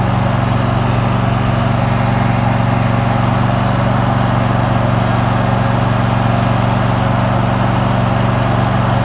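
Riding lawn mower's engine running steadily at a constant speed while it is driven along the road, heard from the seat.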